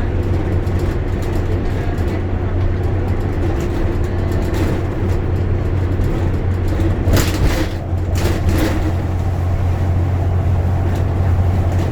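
Bus engine and road noise heard from inside the passenger cabin: a steady low drone while the bus drives along. A few brief sharp noises come about seven to eight and a half seconds in.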